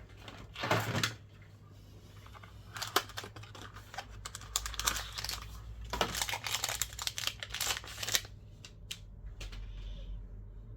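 Small tools and phone parts being handled on a repair bench: irregular light clicks, taps and crinkling, thickest from about four to eight seconds in, over a faint steady low hum.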